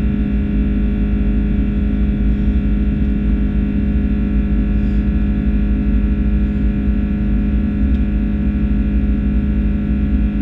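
Airbus A330-300's Rolls-Royce Trent 700 jet engines running at steady high power, a constant drone with a deep rumble and several steady humming tones.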